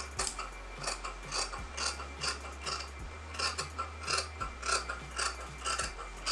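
Tailoring scissors cutting through fabric, a run of short crisp snips about two or three a second.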